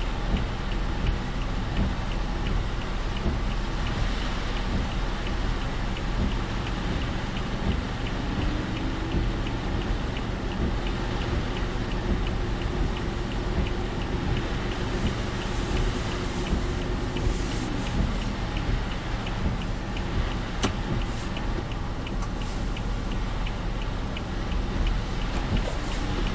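Car driving through typhoon rain, heard from inside the car: steady rain on the body and tyre and road noise on the wet road over a low engine rumble. A faint drone rises about eight seconds in, holds, and drops away about nine seconds later.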